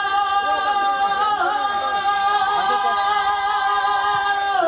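Unaccompanied men's voices singing a Gayo Saman chant: a high note held steadily for over four seconds, with other voices wavering beneath it, then cut off sharply at the end.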